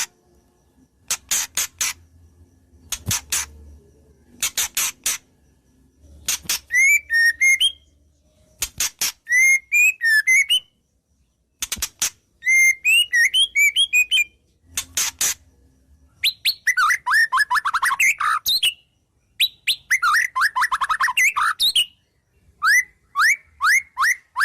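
White-rumped shama singing a varied song with mimicked phrases. It opens with clusters of sharp clicking chips, then moves into fast twittering phrases and rapid falling trills, with short pauses between phrases.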